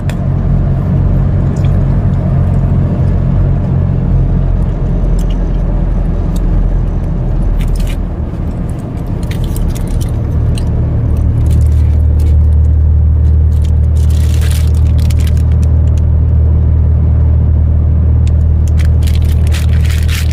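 Truck engine and road noise heard from inside the cab while driving: a steady low drone that deepens and grows louder about halfway through. A few light crackles come near the middle and toward the end.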